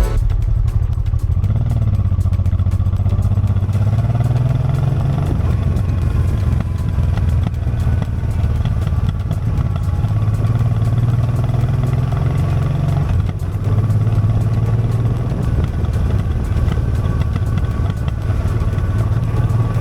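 Honda Transalp XL650V's V-twin engine running while riding, its note rising and easing off several times as the throttle changes.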